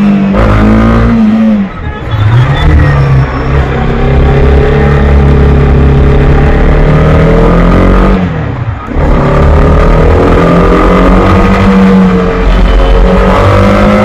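Honda CB300R's single-cylinder engine pulling hard under throttle, its pitch climbing as it revs, with two brief throttle-off dips for gear changes, about two seconds in and about eight and a half seconds in.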